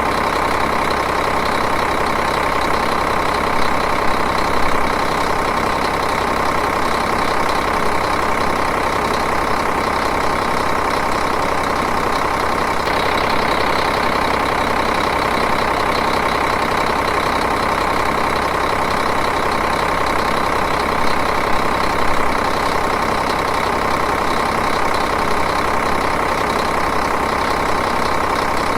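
Diesel engine idling steadily, with an even, rapid clatter.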